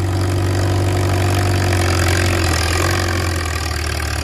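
Small antique Farmall tractor's engine running steadily at low speed while the driver hunts for first gear; the note eases down slightly about three seconds in.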